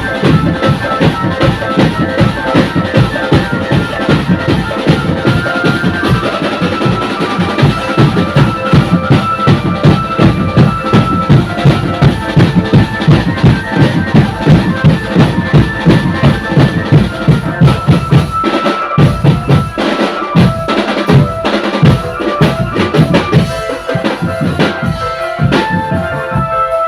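Drum band playing: a fast, steady beat of bass drums and snare drums, with a melody line over it.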